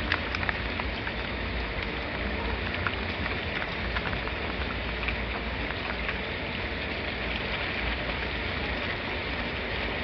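Steady rain falling, with scattered individual drops ticking through the constant hiss.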